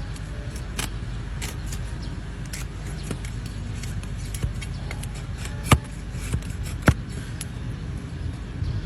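Hoof trimming on a donkey: sharp snaps and clicks of the trimming tools cutting the hoof. The two loudest snaps come a little past the middle, about a second apart, over a steady low rumble.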